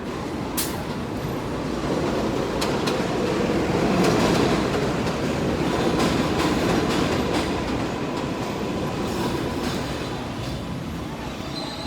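Elevated 7 subway train passing overhead: a loud rumble that builds to a peak about four to seven seconds in, then fades.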